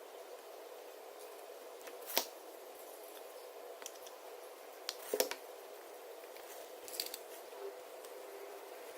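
Scissors snipping three times, a couple of seconds apart, over a steady hum.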